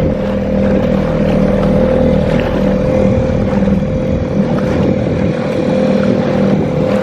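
Small 2.5-horsepower outboard motor running steadily at a constant pitch, pushing an inflatable dinghy, over a steady hiss.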